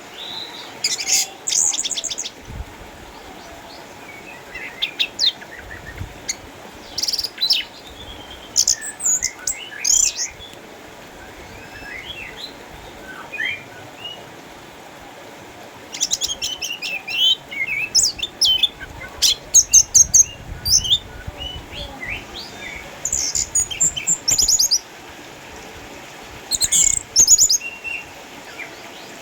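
Orange-headed thrush (anis merah) singing, in loud bursts of rapid, varied high phrases separated by pauses filled with softer twittering notes.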